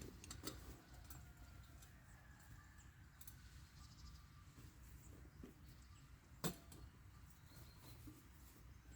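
Near silence: faint outdoor ambience with a few soft clicks and one sharper click about six and a half seconds in.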